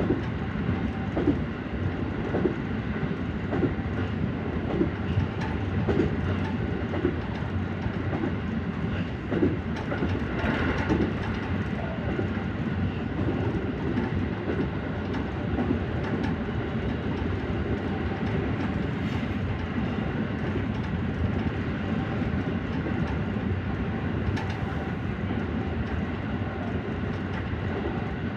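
JR Central 313 series electric train running on the line, with a steady rumble and repeated clacks of the wheels over rail joints, heard from inside the front car.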